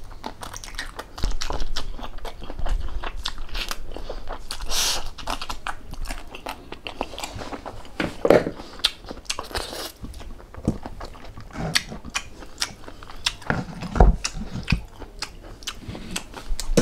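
A person biting and chewing food with many short, sharp crunches.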